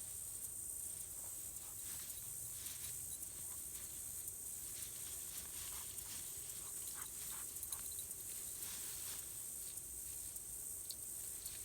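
Faint rustling and crunching footsteps through dry field cover, with a steady high hiss underneath.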